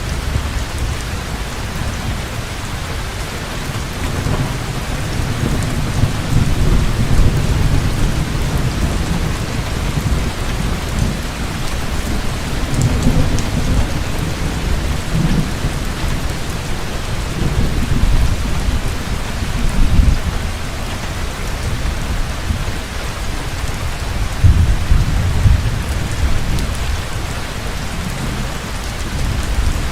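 Heavy rain falling steadily in a thunderstorm, with rolling thunder rumbling low and swelling several times.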